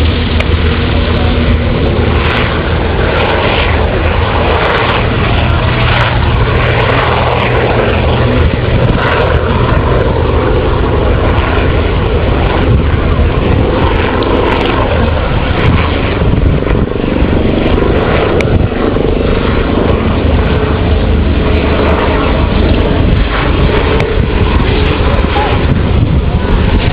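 Helicopter flying a low display pass, its rotor and turbine engine noise loud and steady throughout.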